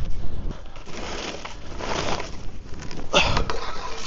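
Ski edges scraping and sliding over icy, powdery snow in several rough bursts.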